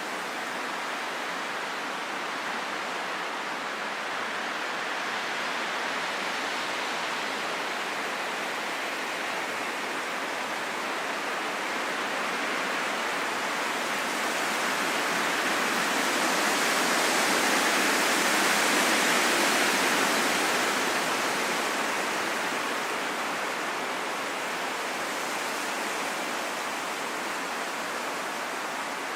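Steady rain falling on a forest, a dense even hiss without distinct drops, swelling a little louder about halfway through and easing back.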